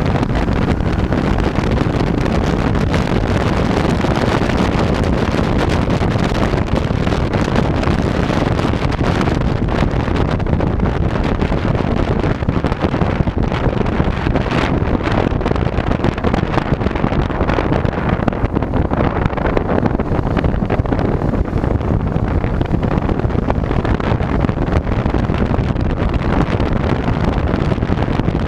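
Steady, loud wind rushing and buffeting over a chest-mounted GoPro Hero3+ microphone while riding, with no clear engine note or rhythm.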